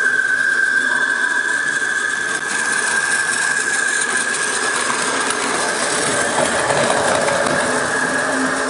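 Train running with a steady high-pitched motor whine over an even hiss of running noise.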